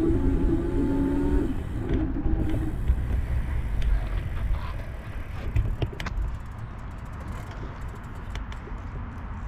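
Low rumble of wind and riding noise during a bicycle ride, with a steady droning tone for the first second and a half and again briefly about two seconds in. The noise grows gradually quieter.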